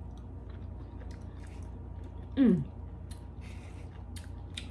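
A person chewing a spoonful of pork souse, with faint wet mouth clicks over a low steady hum. About halfway through comes one short, loud 'mm' of the voice, falling in pitch.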